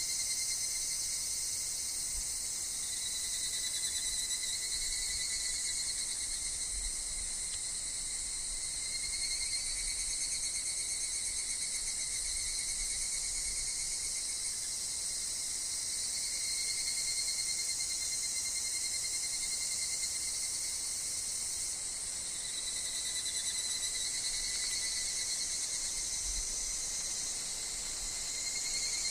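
Chorus of higurashi (evening cicadas, Tanna japonensis) in woodland: a steady high insect drone, with pitched calls that swell and fade every several seconds. A faint low wind rumble comes and goes underneath.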